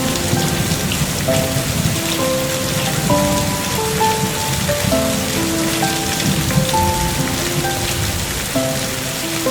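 Steady rain falling and pattering on surfaces, with a slow, soft melody of single held notes playing over it.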